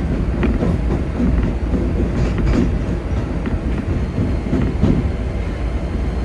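Keikyu 2100 series electric train running, heard from the driver's cab: a steady low rumble with pairs of sharp clicks every couple of seconds as the wheels pass over rail joints.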